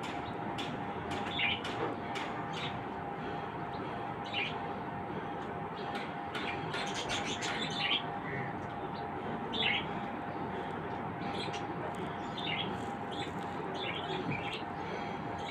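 Pet birds chirping: many short, quick calls in scattered clusters, busiest about halfway through, over a steady background hum.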